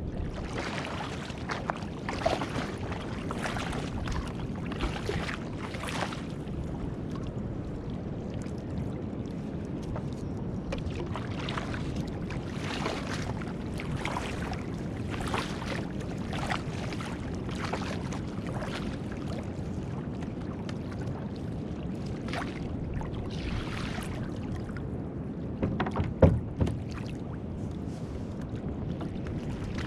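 Water splashing and sloshing around a kayak in soft swishes about once a second, over a steady low rush of wind and water, with a few sharp knocks near the end.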